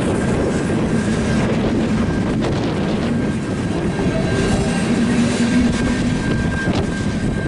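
A freight train of empty centerbeam flatcars rolling past at close range: a steady rumble of wheels, with a few sharp clanks from the rail joints. A thin, steady high tone runs through it.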